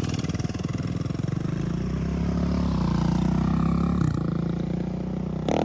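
The minibike's 3.5 hp small single-cylinder engine running steadily, its pitch rising a little in the middle, with one short knock about four seconds in. A different, louder sound cuts in just before the end.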